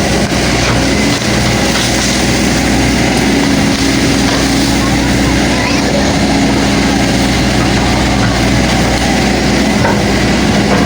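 Excavator's diesel engine running steadily, a constant hum that holds one pitch.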